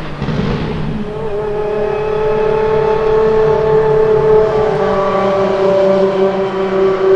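Apollo IE's V12 engine running at a steady high engine speed, its note holding nearly one pitch and growing slowly louder. It is preceded by a rough, noisy stretch of about a second.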